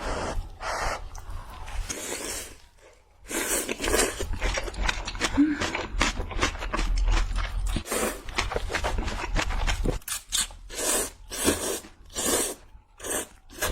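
A person eating close to the microphone: crunchy bites and chewing. There is a short pause about three seconds in, and a string of separate sharp crunches near the end.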